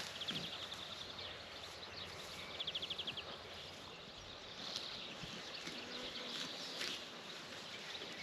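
Outdoor rural ambience with two short, rapid, high trills, one near the start and one about three seconds in.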